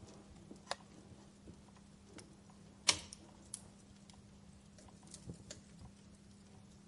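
Firewood burning in a fireplace, crackling with sparse, irregular pops and one loud crack about three seconds in.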